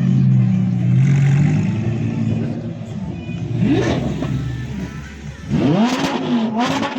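Car engine running at a steady idle, then revved twice, the pitch rising and falling, with the second rev longer and louder near the end.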